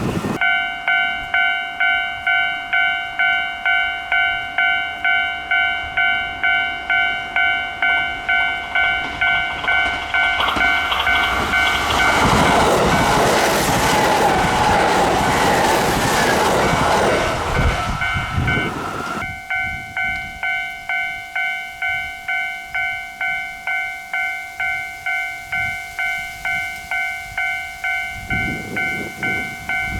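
Railway level-crossing alarm ringing in a steady ding-ding about one and a half times a second. About ten seconds in, a Kintetsu train passes, its running noise swelling over the bell and fading again some nine seconds later, and the alarm goes on ringing after it.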